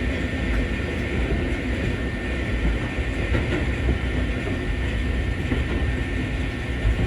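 Eizan Electric Railway train running, heard from inside the car: a steady rumble of wheels on rail with a few faint clicks over the track.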